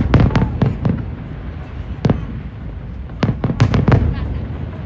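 Fireworks bursting in quick clusters of sharp bangs: about five in rapid succession near the start, a single bang about two seconds in, and another run of about five a little after three seconds.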